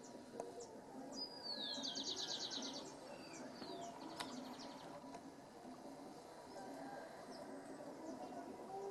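Small birds chirping, with one bird singing louder about a second in: a falling note followed by a fast trill. A single sharp click about four seconds in, over a faint steady background murmur.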